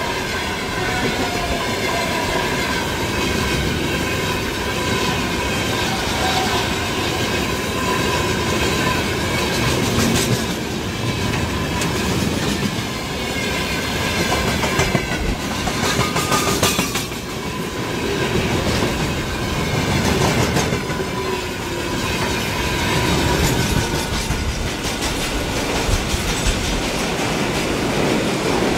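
A long freight train of open gondola wagons rolling past at speed, its wheels clattering over the rail joints, with high squealing from the wheels at times.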